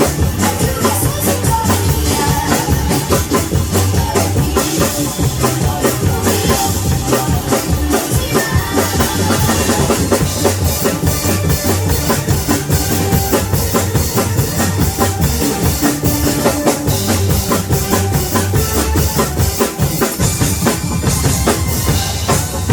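A drum kit played to a song, with a steady kick-drum beat under the music.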